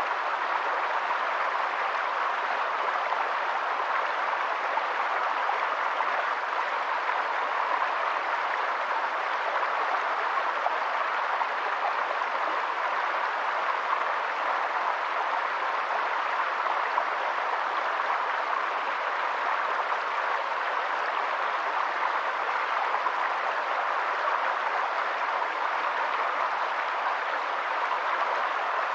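Steady, even rushing noise of water, unchanging throughout.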